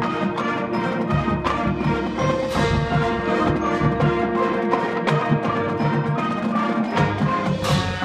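Marching band playing: sustained brass and wind chords over drumline and front-ensemble mallet percussion, with regular drum strikes.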